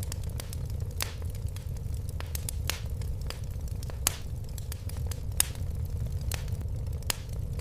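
Fireplace fire crackling: irregular sharp pops about once a second over a steady low rumble of burning, with the loudest pop about five seconds in.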